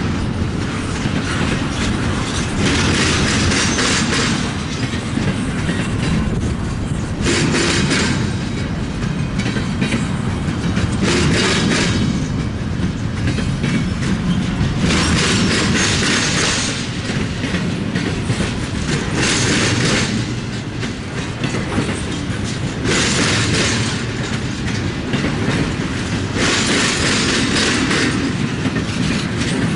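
Freight train cars rolling past with a steady rumble and the clickety-clack of wheels over the rails. A brighter hiss swells every few seconds.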